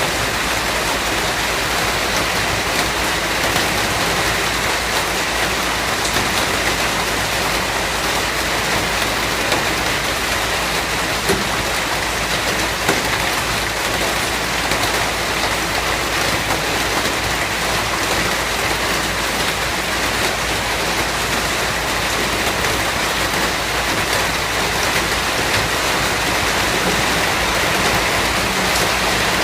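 Steady rain falling, a dense even hiss of drops with a few slightly louder drops standing out now and then.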